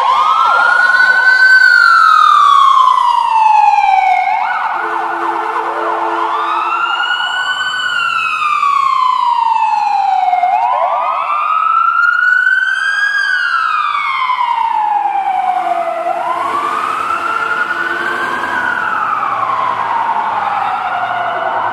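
Fire engine siren on wail, its pitch rising quickly and then falling slowly in cycles of about five seconds. A second siren overlaps in the second half, and a lower steady tone sounds briefly twice.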